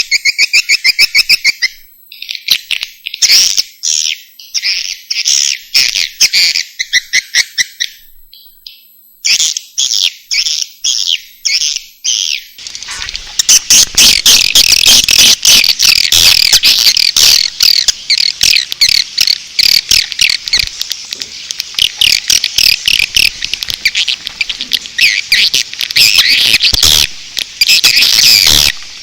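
Recorded swiftlet calls, the lure call used to draw swiftlets into a bird house. For the first twelve seconds or so they come as separate phrases of rapid clicking chirps with short gaps, then they turn into a dense, unbroken chatter of many birds.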